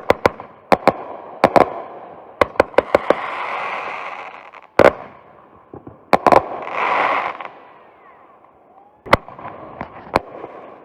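TNT consumer fireworks going off in a finale barrage: about twenty sharp bangs in irregular clusters, with a hiss that swells and fades between them.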